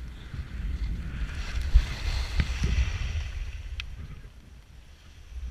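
Wind buffeting the microphone, with the hiss of skis sliding over snow that swells in the middle and fades toward the end, and a few faint clicks.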